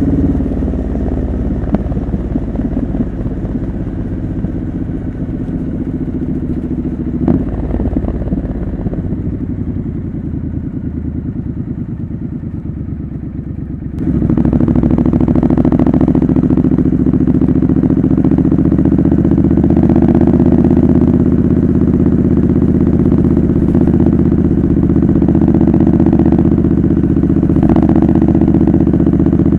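Triumph Scrambler 900's parallel-twin engine running through a homemade custom exhaust while riding. It eases off with the level slowly dropping for the first half, then about halfway through the throttle opens and the exhaust note jumps up suddenly and holds loud and steady.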